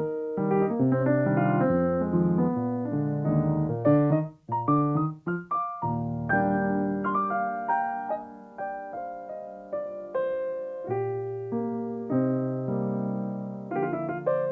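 Solo piano playing, with a short run of quick separate notes about five seconds in, then slower held chords.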